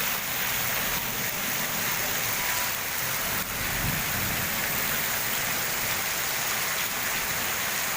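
Heavy tropical downpour: rain falling hard and steadily on roofs and on a flooded street, a dense unbroken hiss.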